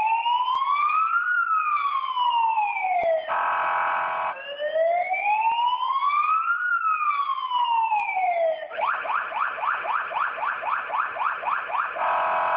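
Electronic police siren: two slow wails rising and falling, each followed by about a second of a steady horn-like tone, then a rapid yelp of quick sweeps, about four to five a second, for some three seconds, ending on the steady tone.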